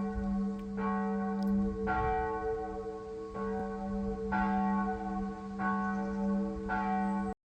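Church bell ringing, struck about six times at uneven intervals of a second or so, each stroke ringing on with a low hum under its higher tones; it cuts off abruptly near the end.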